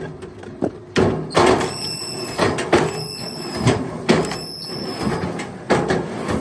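Irregular hard knocks and bangs, about one or two a second, several of them leaving a brief metallic ring.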